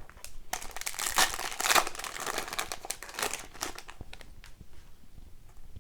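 Foil hockey-card pack wrapper crinkling as it is handled and torn. There is a dense run of crackles for about three seconds, then a few faint ticks.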